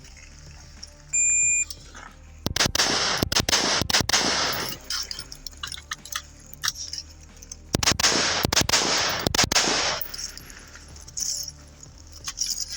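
A shot timer beeps once, briefly, about a second in. Then two rapid strings of rifle shots follow, one from about two to five seconds in and one from about eight to ten seconds, each shot ringing out.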